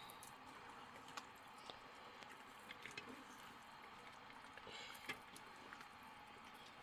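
Near silence: a faint steady hiss with scattered small clicks and taps, one a little louder about five seconds in.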